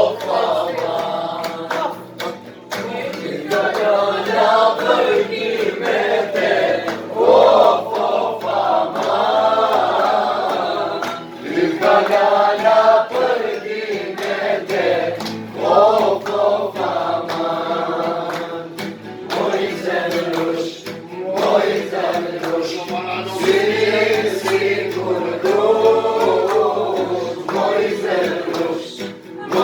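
A group of voices singing together in long phrases.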